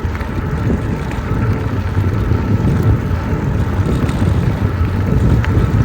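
Riding noise from an e-bike moving along a trail: a steady, uneven low rumble of wind on the microphone and tyres, with a faint steady high whine.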